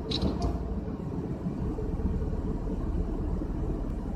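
Tata Nano's small two-cylinder petrol engine idling steadily, a low rumble heard from inside the stationary car, with two brief high-pitched sounds right at the start.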